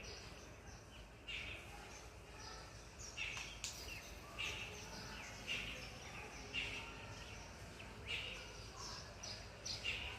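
Big ringneck parrot calling: short, harsh squawks repeated about once a second, some with a brief higher note.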